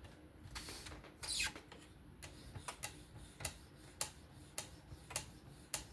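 Ceramic stone on a fixed-angle swing-arm knife sharpener stroking lightly along a knife edge. There is a short scrape about a second in, then a run of small sharp clicks, two or three a second.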